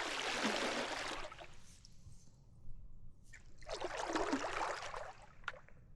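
Kayak paddle strokes in creek water: two splashing swishes, one right at the start and another a little over three seconds later.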